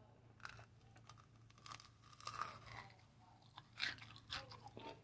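Biting into and chewing a candy-coated grape: irregular crunches with wet mouth sounds, the loudest crunch about four seconds in.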